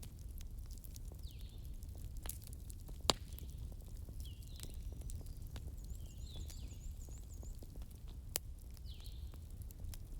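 Wood fire crackling with a steady low rumble and many small snaps, and two louder single pops, about three seconds in and just after eight seconds.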